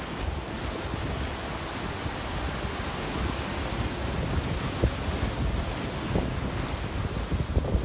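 Sea waves washing on the shore, with wind gusting on the microphone.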